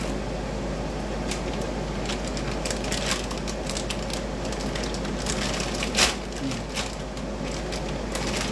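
Crinkling and clicking as frozen chicken nuggets are handled out of their bag and set into the air fryer basket, with one louder knock about six seconds in.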